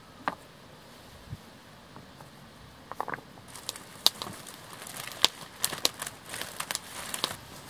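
Wood fire crackling: a few scattered pops at first, then from about halfway through, denser small crackles over a faint hiss.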